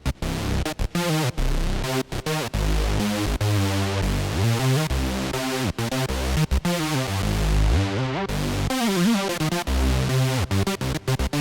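Arturia Memory V, a Memorymoog-style polyphonic synthesizer, playing an electronic pattern of short, choppy notes over a stepping bass line, with the tone sweeping up and down.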